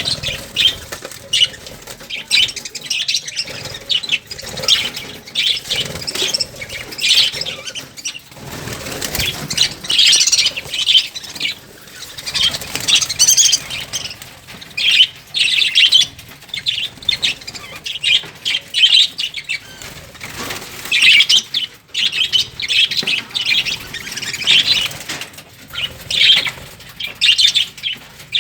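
Lovebirds chattering: a continuous stream of rapid, shrill chirps and squawks.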